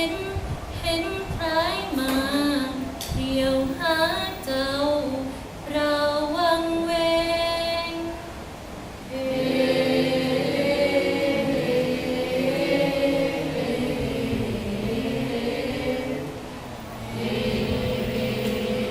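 Thai royal barge chant (kap he ruea) sung in its slow lament style. A single voice draws out wavering, ornamented phrases; about nine seconds in, a group of voices joins together on long held notes. The group's singing fades briefly near the end, then comes back.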